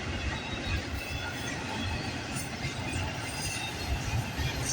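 Container cars of a CP Rail freight train rolling past, with a steady rumble of wheels on the rails.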